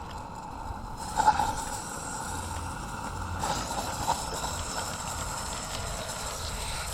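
Roundhouse Lady Anne live-steam garden-scale locomotive running with its coach, a steady hiss and rattle of steam and wheels on the track, with a sharp knock about a second in.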